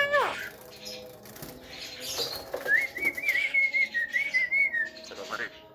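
Javan myna calling: one short arched call at the start, then a wavering, warbled whistle lasting about two seconds through the middle, with some rustling around it.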